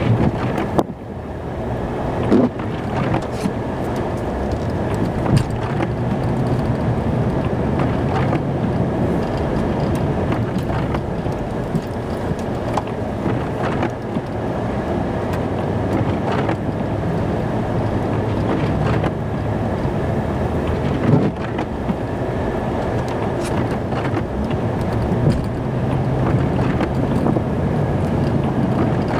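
Snow-plow truck running steadily while plowing, heard from inside the cab, with a few short knocks and bumps along the way.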